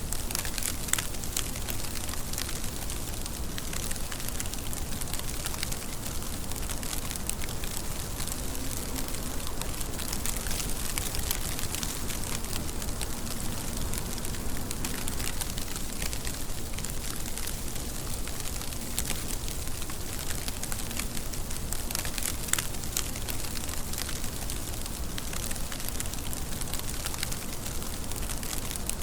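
Steady rain falling, a continuous hiss with many sharp individual drop hits scattered through it.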